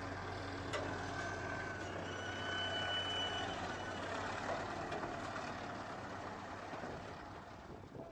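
Heavy equipment engines running steadily, with a brief high whine about a second or two in.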